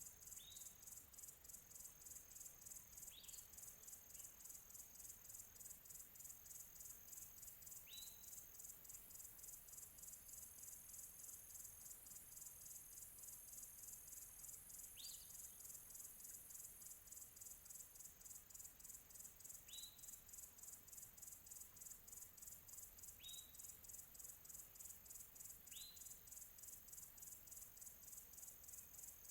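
Crickets chirping faintly in a fast, even pulsing rhythm, with a bird giving a short, sharply rising whistle every few seconds, about seven times.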